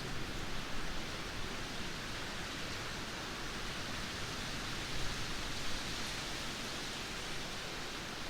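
Heavy rain pouring down in a steady, dense hiss, with no thunder or distinct gusts.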